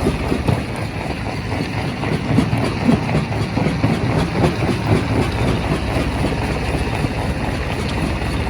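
Primary rock crusher at work in a quarry: a heavy, continuous low rumble with irregular knocks and clatter of rock running through it.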